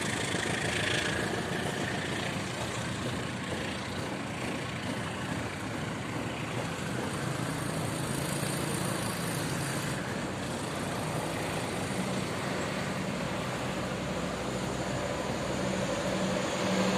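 Train at a station moving off, with a steady engine drone and running noise that grows slightly louder near the end.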